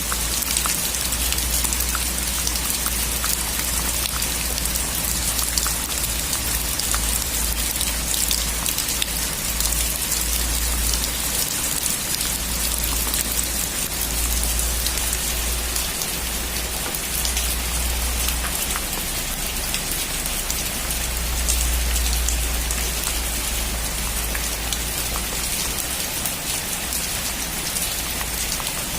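Steady heavy rain drumming on a metal roof, a dense patter of individual drops over a continuous hiss, with a low rumble underneath that swells and fades.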